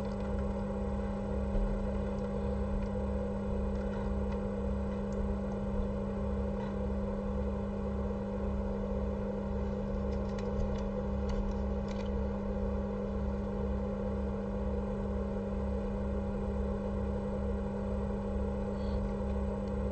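Steady low electrical hum with a fainter low throb pulsing about two to three times a second, and a few faint scattered clicks.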